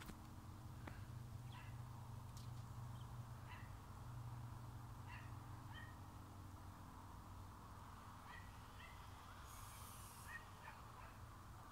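Faint, scattered short bird chirps over a steady low hum.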